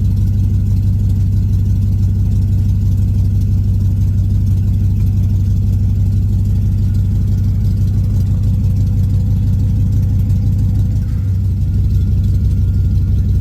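Swapped-in 5.3 L LS V8 of a 1983 Pontiac Firebird idling steadily, still warming up after a sub-zero cold start.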